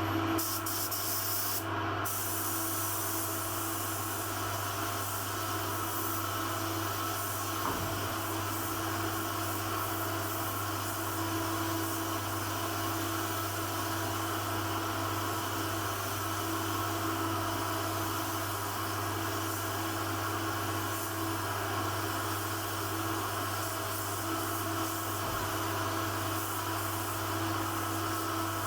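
Steady machine noise: a constant hum with a hiss over it, unchanging throughout.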